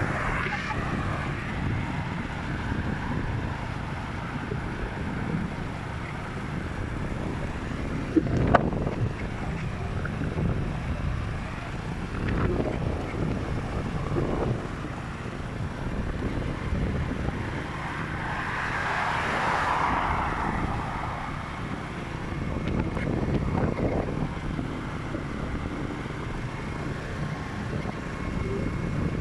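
Motorcycle riding on the road: a steady rush of wind on the microphone and road noise, swelling and easing, with a short knock a third of the way in.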